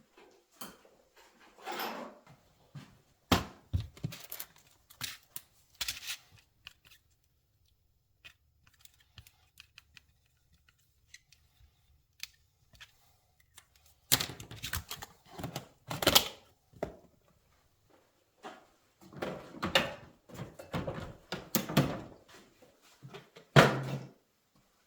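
Hand-tool work on a Yamaha R1 engine during cylinder-head removal: scattered metallic clicks, knocks and thunks in clusters, with a quiet spell in the middle.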